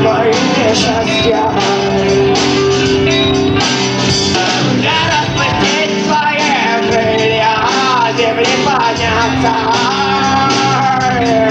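Rock band playing live: guitars and drums, with a voice singing a melody from about four seconds in.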